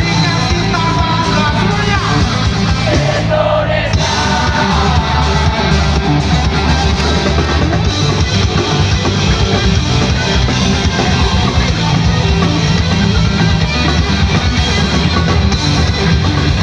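Rock band playing live, loud and steady: electric guitars, bass and drums, with a sung vocal line in the first few seconds.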